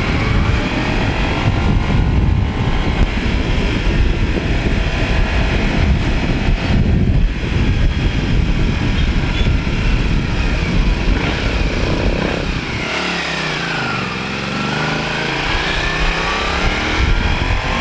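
Motorcycle engine running while riding, with heavy low rumble under it. About twelve seconds in it eases off and the engine note falls, then climbs again as it speeds back up.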